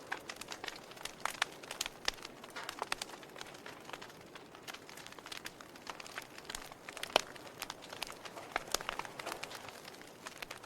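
Wood fire burning in a fireplace: irregular crackles and snapping pops over a soft, steady hiss of flame, with one louder pop about seven seconds in.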